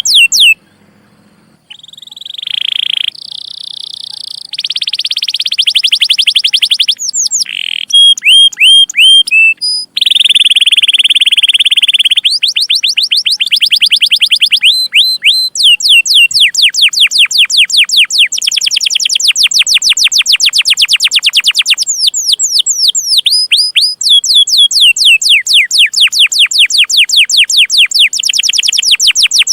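Domestic canary singing a long song: rapid series of downward-sweeping chirps repeated many times a second, broken by buzzy rolled trills. It pauses briefly just after the start.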